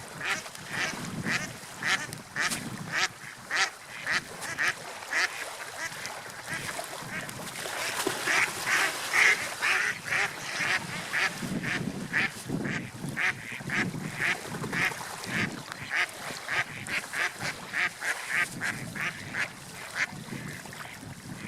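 Seagulls calling in a long run of short, harsh notes, about two a second, some louder in the middle. A low rushing sound swells and fades underneath.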